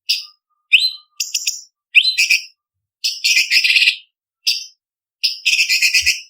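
Orange-bellied leafbird (cucak cungkok) singing: short, sharp, high whistled notes, some sweeping quickly upward, broken by two longer rapid chattering phrases, about three and five seconds in.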